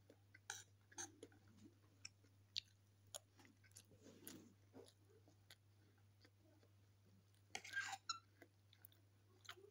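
Faint chewing and mouth sounds of a person eating rice and chicken, with scattered light clicks of the spoon and fork against the plate. A brief louder scraping noise comes about eight seconds in as the fork works at the food on the plate.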